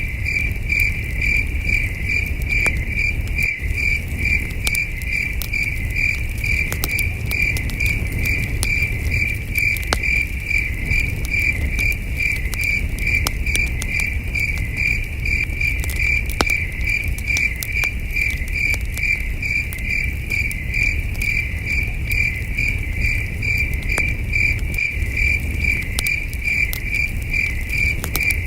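Crickets chirping in a steady, evenly pulsed high trill, with the sharp crackles and pops of a campfire scattered throughout over a low steady rumble.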